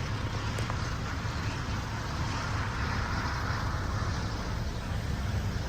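Steady low rumble and hiss of background noise, swelling a little about halfway through.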